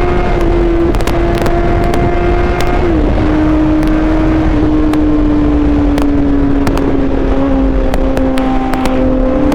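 Suzuki GSX-R750 inline-four engine running steadily under way at a high, held note that eases slowly lower, with a couple of small dips in pitch, over heavy wind rush on the microphone.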